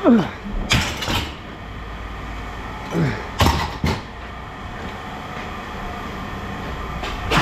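Scrap metal clanking and scraping as pieces are handled and dropped: sharp metal clanks about a second in and again around three and a half seconds, each led by a short falling scrape. A steady low rumble runs underneath.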